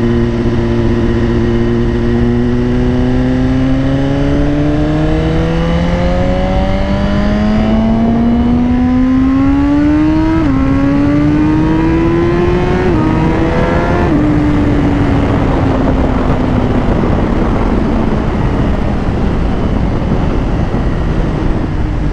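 Suzuki GSX-R1000R's inline-four engine accelerating: the revs climb steadily for about ten seconds, with quick dips at gear shifts around ten and thirteen seconds. After about fourteen seconds the engine note falls slowly as the bike eases off, under a rising rush of wind noise.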